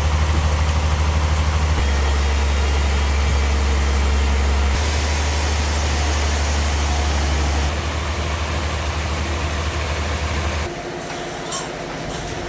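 Heavy engine running steadily with a deep hum. The sound jumps abruptly in pitch and loudness every few seconds, as if cut between clips, and drops quieter near the end.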